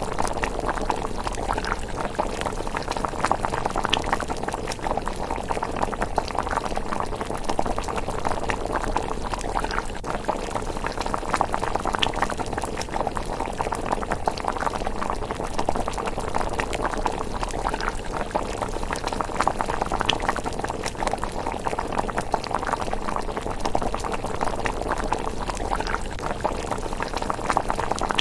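A pot of miso rice porridge bubbling at a steady simmer: a dense, unbroken patter of small bubbles popping, with an occasional sharper pop.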